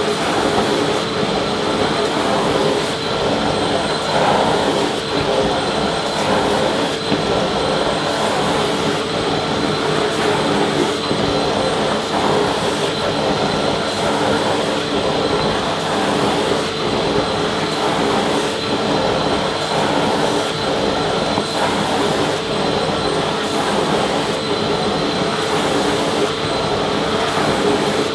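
Vacuum cleaner running steadily: a constant rush of air with a steady motor whine over it, unchanging throughout.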